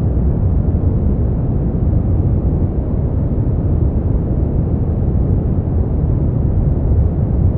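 Brown noise: a steady, deep rushing hiss, strongest in the lows and falling off toward the highs, with no change in level.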